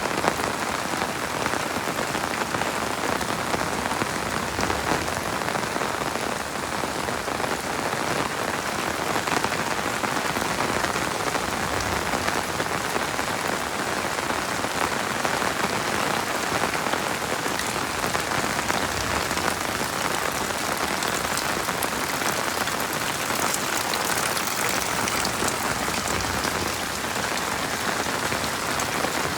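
Heavy rain falling steadily, a dense, even patter of drops on hard surfaces.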